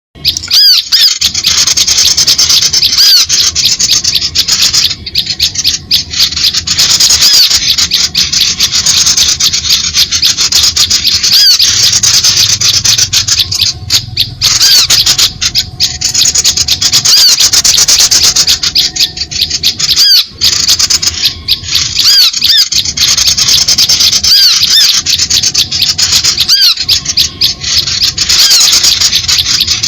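A dense, noisy chorus of small songbirds chattering and chirping without pause, many high-pitched calls overlapping. It is a bird-lure call recording, played to draw small birds in, and it begins abruptly.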